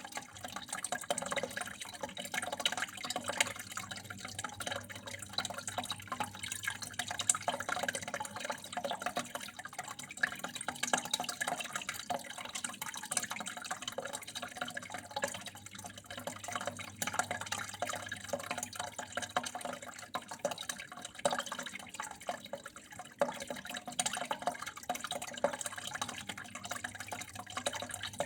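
Water flowing and trickling steadily, with many small drips and splashes.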